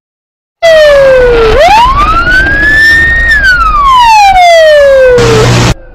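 Police car siren wailing loudly in a slow rise and fall over a rumble of road noise. It starts about half a second in and cuts off abruptly near the end after a brief burst of hiss.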